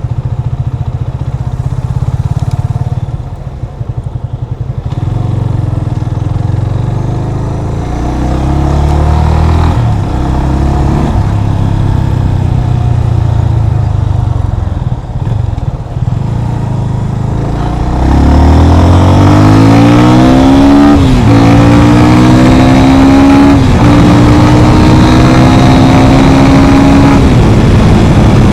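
Yamaha FZ25's single-cylinder engine running under way. It revs up in rising sweeps that drop back at each gear change, then holds a steady pitch at cruising speed. Wind noise on the microphone grows loud about two-thirds of the way in.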